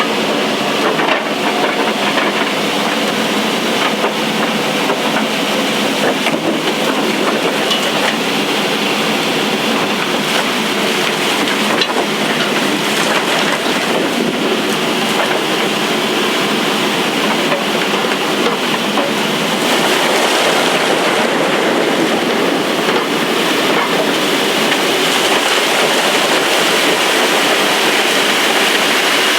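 Loud, steady noise of underground opal-mining machinery: the blower truck's suction drawing through its pipe at the digging face while the digging machine runs. It grows a little louder about two-thirds of the way through.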